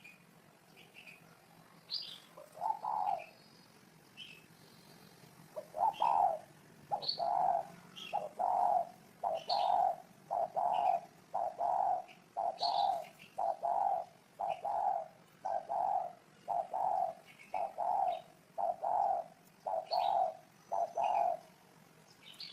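Spotted dove cooing: a fast run of short, low coos repeated about one and a half times a second, with small birds chirping higher above.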